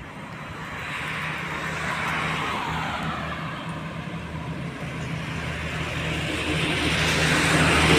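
Truck engine running with tyre and road noise, growing steadily louder as the vehicle approaches.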